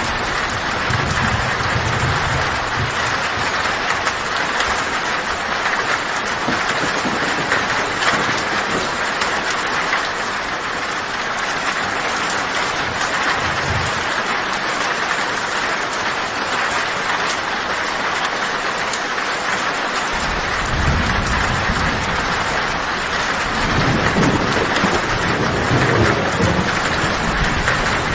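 Heavy rain falling on a tin roof as a steady, dense hiss, with low thunder rumbling in the first few seconds and again through the last several seconds.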